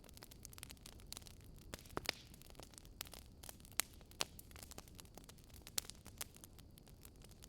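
Wood fire crackling with irregular sharp pops, a few louder snaps among them, over a low steady rumble of storm wind.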